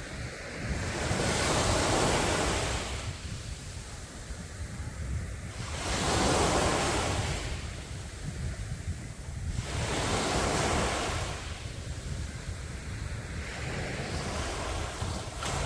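Sea surf on a beach: waves break and wash in about every four to five seconds, each one swelling up and then fading, four times over.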